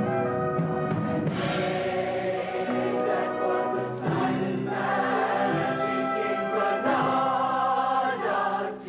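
A high school show choir singing in full harmony, with a live band accompanying them, during an up-tempo opening number. The sound dips briefly near the end.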